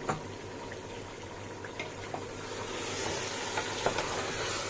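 Chicken masala with freshly added yogurt sizzling in a steel pot, with a few light taps and scrapes of a wooden spoon stirring it in.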